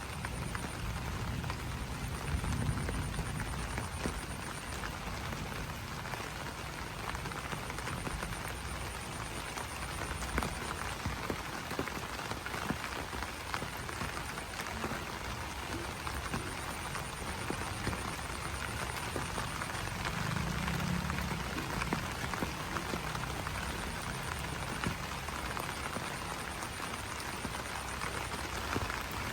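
Steady rain pattering on banana leaves. A faint, high, pulsing trill comes and goes through it, and low rumbles swell near the start and again about two-thirds of the way through.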